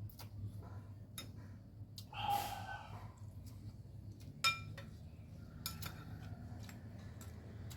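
Eating utensils clinking against a noodle bowl in light, scattered taps, with one ringing clink about four and a half seconds in, along with soft eating sounds.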